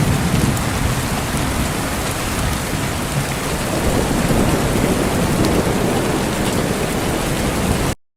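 Steady heavy rain with a low rumble of thunder underneath. The sound cuts off suddenly to silence near the end.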